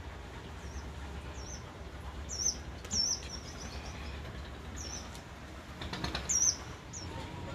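A small bird chirping in short, high, wavy notes, about eight times, loudest around two and a half, three and six and a half seconds in, over a faint steady low hum.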